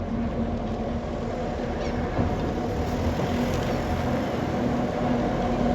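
Heritage tram running, a low rumble with a steady hum, growing gradually louder.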